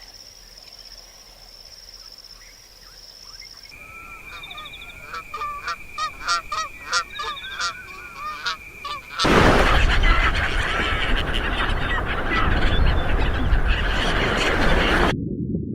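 Geese honking in many short, repeated calls, followed about nine seconds in by a loud, dense rushing noise that runs on until a sudden cut.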